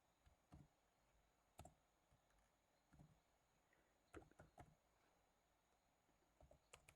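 Faint, scattered computer keyboard keystrokes and clicks over near silence, a few isolated taps with a short cluster about four seconds in.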